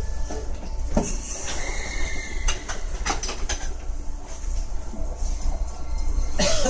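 Keio 1000 series electric train running, heard from inside the passenger car: a steady low rumble with sharp clicks of the wheels over the rails, and a louder burst with a short squeal near the end.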